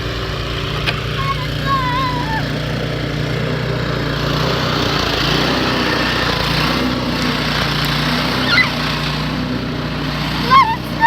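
A small engine running steadily, with short high calls from children's voices over it.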